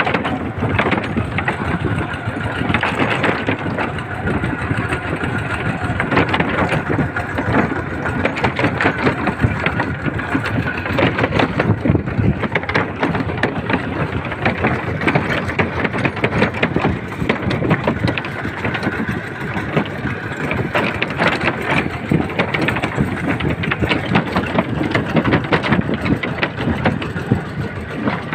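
Small tractor engine running steadily, with a fast even chugging beat and rattle that never lets up.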